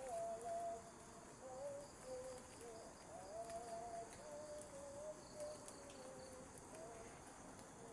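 Insects chirring steadily, with a faint tone that wavers slowly up and down in pitch beside them.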